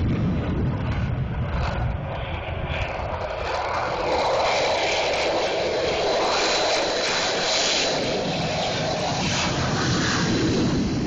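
F-16 fighter jets taking off, their jet engines making loud, continuous noise whose tone shifts from deep to higher and back as the jets move.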